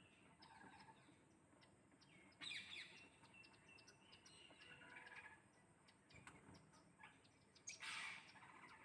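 Parrots chirping and squawking faintly, with two louder harsh calls, about two and a half seconds in and near the end.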